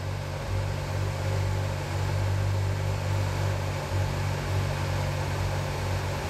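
A car engine running at a steady, low-pitched speed, without revving.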